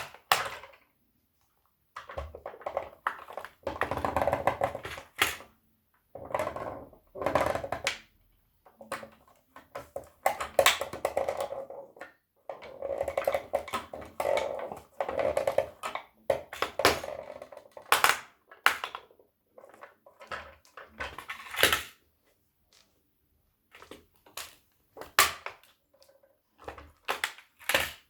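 Plastic toy tow truck and toy car being pressed and crushed underfoot: bursts of creaking, crackling plastic lasting a second or two, with sharp snaps and knocks in between.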